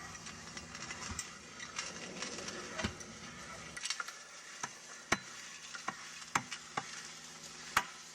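Metal clicking and scraping as a Ringmaster push tool works a tire and ring assembly onto a loader wheel rim, with several sharp metallic clicks in the second half. A steady low hum runs beneath and stops about four seconds in.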